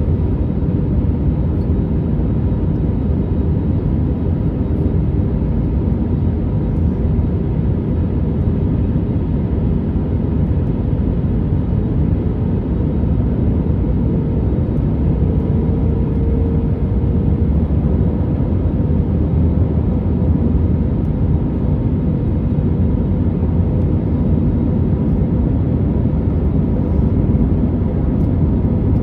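Steady cabin noise inside an Airbus A321neo: a low, even rumble of engines and airflow, with a faint steady hum running under it.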